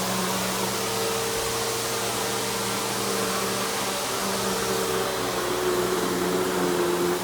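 Simplicity Symmetry Deluxe upright vacuum's 12 amp single-stage motor running steadily with the brush roll engaged, being pushed over carpet: a constant rushing hiss over a low hum, with a fainter tone that wavers slightly in pitch in the second half.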